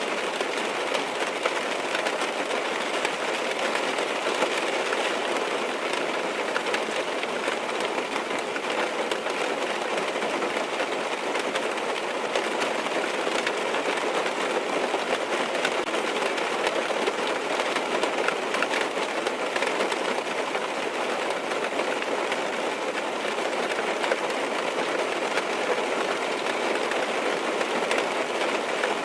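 Steady rain drumming on a car's roof and windows, heard from inside the cabin, a dense even patter of small drop ticks.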